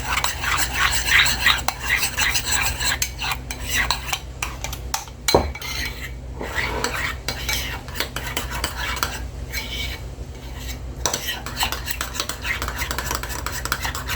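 A utensil stirring a thick mayonnaise-based sauce in a dish, scraping and clinking against the sides, with one sharper knock about five seconds in.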